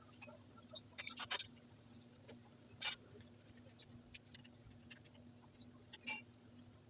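Short, sharp metallic clinks and clicks of tools and parts being handled while a motorcycle is taken apart. There is a quick cluster about a second in, a single louder clink near three seconds, and another pair around six seconds, over a faint steady hum.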